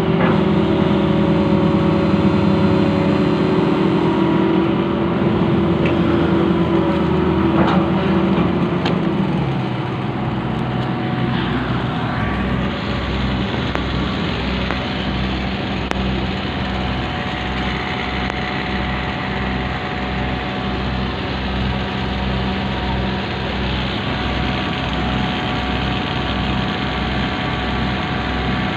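Diesel engine of a long-reach excavator running at higher revs, then dropping back about ten seconds in to a steady, lower idle with an even low pulsing.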